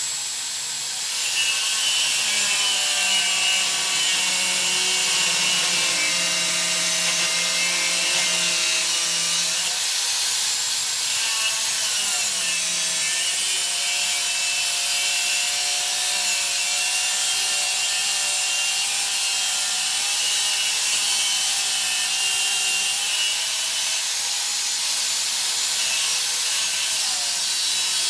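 Electric power tool cutting steel stock, a steady grinding cut whose motor pitch sags under load twice, about twelve seconds in and near the end.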